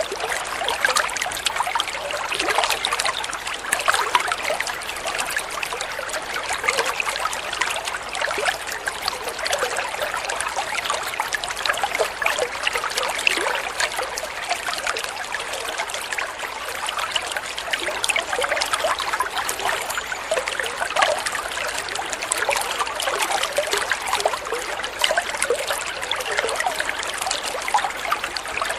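Flowing water trickling and splashing steadily, a continuous rush full of small splashes.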